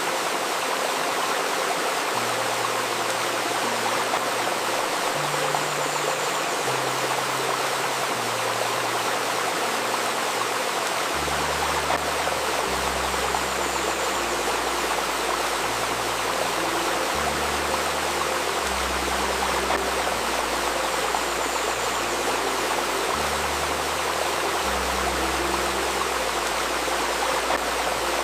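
Babbling river water flowing steadily, mixed with a soft music bed of slow, low synth notes that change every second or two; the notes come in about two seconds in and turn deeper and fuller about eleven seconds in. A faint steady 528 Hz tone sits under the water.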